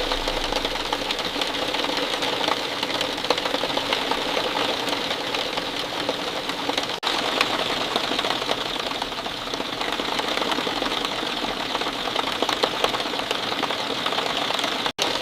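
Steady rain falling, a dense patter of many small drops, with a brief dropout about seven seconds in.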